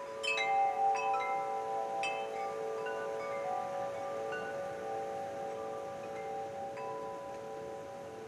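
Wind chimes ringing: clusters of metal tubes struck near the start and again about one and two seconds in, their notes lingering and slowly fading, with a low note wavering throughout.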